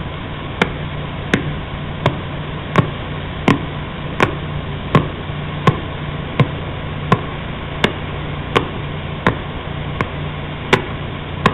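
Radio signal of pulsar PSR B0329+54 converted to sound: a steady hiss with a sharp tick or knock about every 0.7 seconds, one for each rotation of the neutron star.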